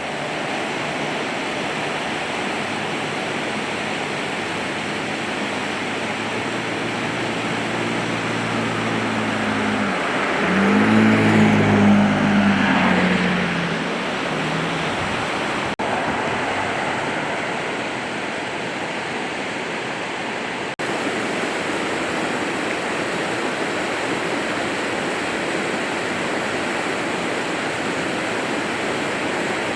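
A vehicle's engine drone rises as it approaches, is loudest about eleven seconds in, and drops in pitch as it moves away. Under it is a steady rush of flowing water.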